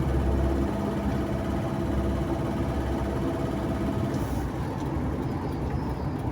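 Car engine and road noise heard from inside the cabin while driving: a steady low hum, with a faint engine tone that fades about four seconds in.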